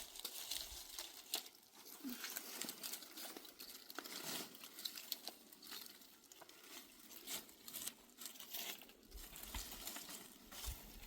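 Dry twigs and brush crackling and rustling: an irregular run of sharp snaps and crinkles with no steady rhythm.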